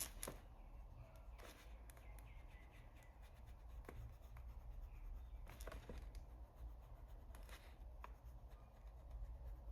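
Faint scratching of a coloured pencil shading on paper with firm pressure, in many short strokes.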